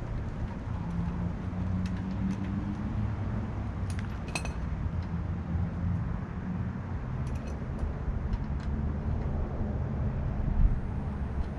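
Vehicle running with a steady low rumble, with a single light metallic clink about four seconds in.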